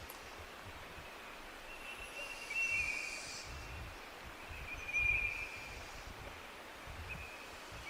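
Forest ambience: a steady hiss with uneven low wind rumble, and short high bird calls about two seconds in, again at about five seconds and once more near the end.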